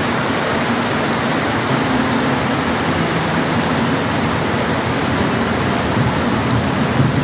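Steady, even rain hiss with no let-up.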